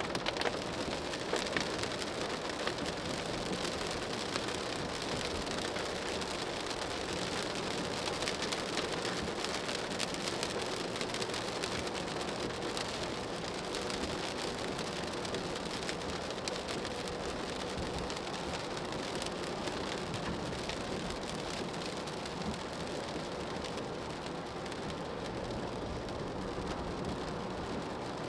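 Rain striking a car's roof and windscreen, heard from inside the moving car as a dense spread of small drop ticks over steady tyre and road noise.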